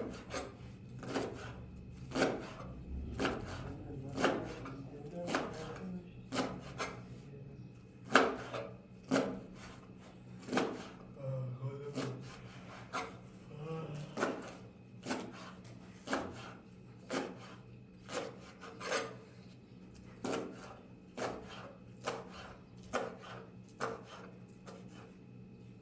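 Knife chopping chicory, a sharp cut about once a second in a steady rhythm.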